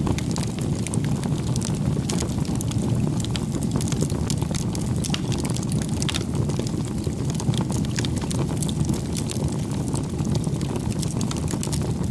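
Campfire of burning wood crackling, with many quick sharp pops over a steady low rush of the flames.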